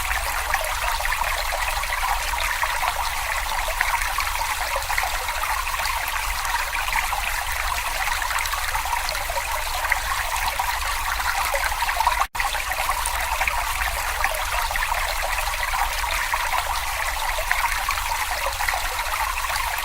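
Babbling brook water running and trickling steadily, with a split-second gap about twelve seconds in.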